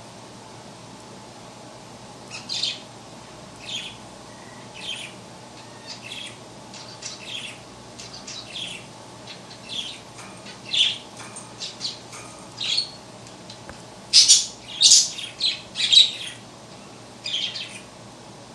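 Budgie chirping and squawking in short, scattered calls, starting a couple of seconds in and loudest in a quick cluster near the end, over a faint steady hum.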